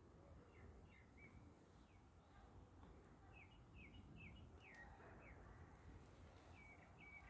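Faint songbird chirps, short quick downward notes: a few near the start, a run of about six in the middle and a couple more near the end, over faint low outdoor background noise.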